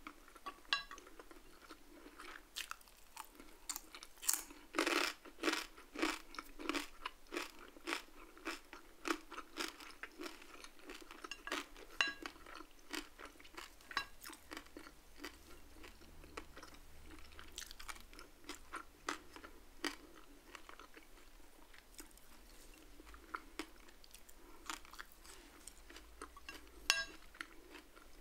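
Close-miked chewing of crispy food: a dense run of sharp crunches through the first half, loudest around five seconds in, then softer, sparser chewing with a few more crunches near the end.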